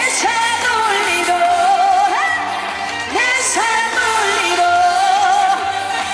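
Live Korean trot song: a female lead voice sings long wavering notes with sharp upward slides, over an amplified band backing.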